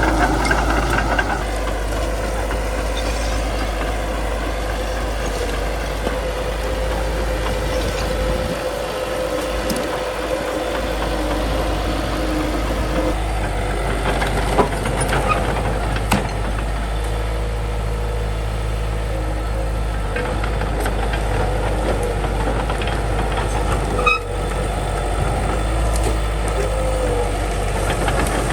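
Crawler bulldozer's diesel engine running steadily under load while pushing through brush. A few sharp cracks stand out, about halfway through and again later.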